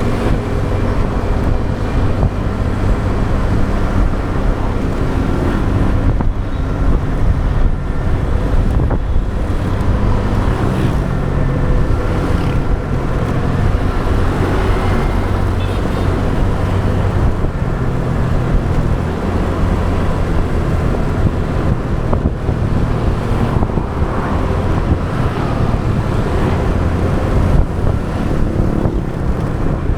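Motorbike riding in traffic: its engine runs steadily under a heavy low rumble of wind on the microphone and road noise, with other traffic around.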